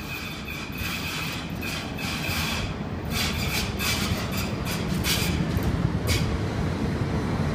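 Passenger train slowing into the station. A high, steady squeal runs through the first few seconds, then a quick run of clicks and clatters comes around the middle, over a low rumble that grows louder as the train draws near.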